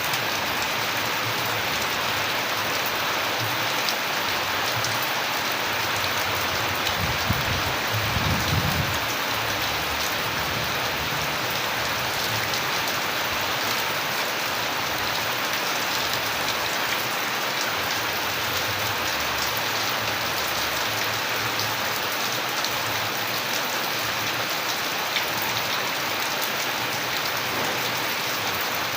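Steady rain falling and pattering on surfaces, with scattered individual drop ticks. A brief low rumble comes about seven to nine seconds in.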